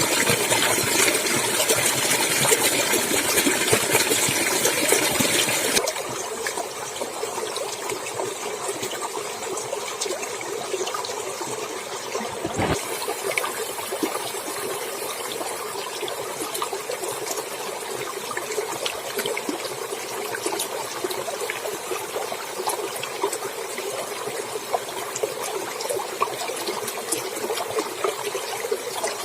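Clear stream water flowing and trickling over rocks, a steady splashing rush. About six seconds in it turns suddenly softer and less bright.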